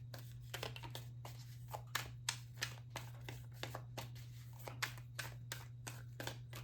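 Tarot cards being handled and shuffled: a run of quick, irregular light snaps and flicks, over a steady low hum.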